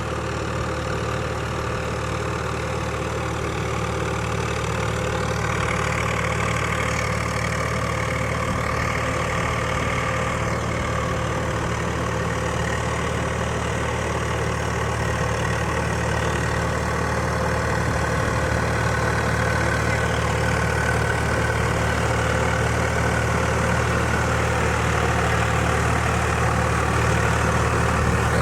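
An engine idling steadily with a low, even hum that grows slowly louder.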